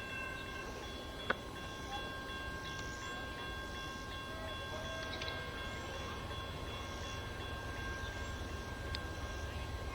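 Faint steady rumble of an approaching Amtrak passenger train, with several steady high ringing tones held above it. There is a single sharp click about a second in.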